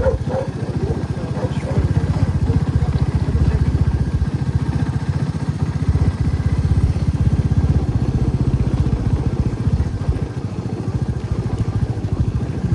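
Motorcycle engine running steadily, a low, even rumble of its firing pulses.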